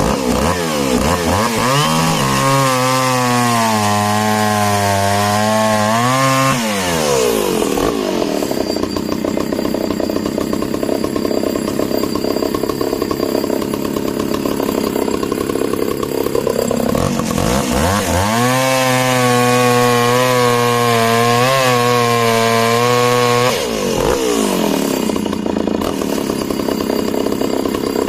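Echo CS-602VL two-stroke chainsaw running hard and cutting discs from a log. Its engine note rises, holds and falls off twice as throttle and load change.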